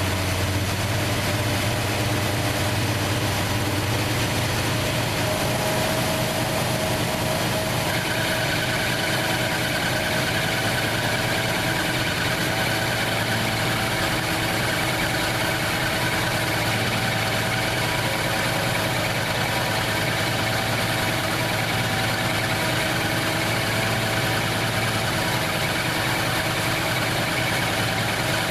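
1968 Plymouth Fury's 383 big-block V8 with a four-barrel carburettor idling steadily.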